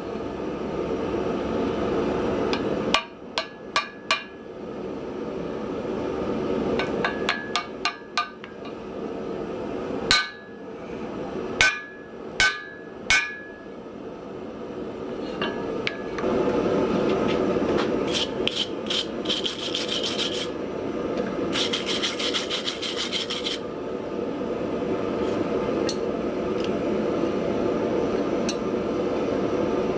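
Metalworking sounds: hammer strikes on steel in small groups over a steady rushing noise, then two spells of rapid light strikes or strokes.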